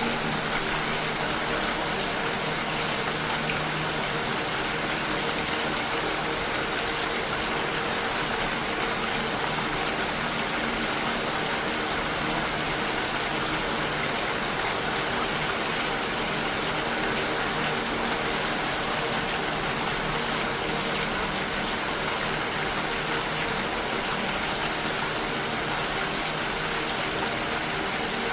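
Steady, dense rain, an even hiss that does not change. Faint held low tones sit underneath it and fade over the first half.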